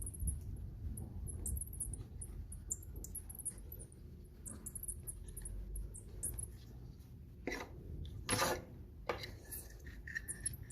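Jetta Mk4 electric radiator cooling fan squeaking as it turns: many short, faint squeaks, with two louder, longer scrapes about three-quarters of the way through. The squeak comes from a dry motor shaft short of grease, which needs maintenance.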